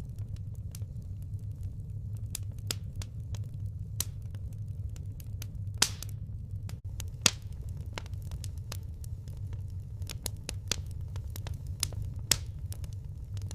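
Wood fire burning, with irregular crackles and a few sharp pops of splitting firewood over a steady low rumble.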